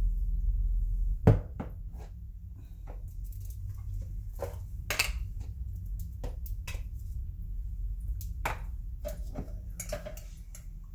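Dishes and utensils clinking and knocking in irregular, scattered strikes, the loudest a sharp knock about a second in. A steady low hum stops just before that knock.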